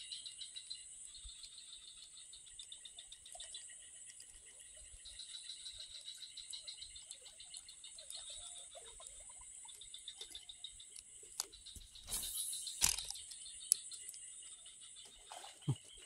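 Chorus of insects trilling steadily at a high pitch. A few short knocks and clicks sound in the second half.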